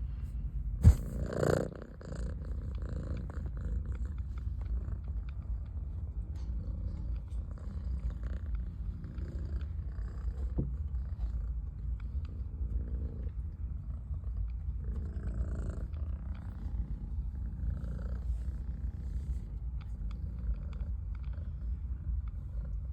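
Domestic cat purring steadily, a low continuous rumble close to the microphone. A sharp knock and a short louder noise break in about a second in.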